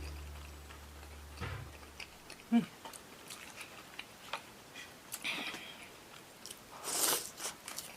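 Close-miked chewing and small wet mouth clicks and smacks of someone eating, with one sharper mouth sound about two and a half seconds in and a breathy rush near the end.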